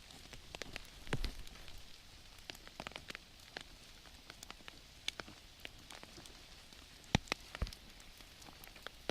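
Rain falling: scattered raindrops landing as irregular sharp taps over a faint steady hiss, with a few louder drops near the end.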